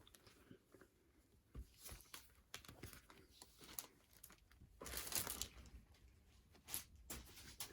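Faint handling of a CD album and its packaging: scattered light clicks and rustles, with a longer rustle about five seconds in.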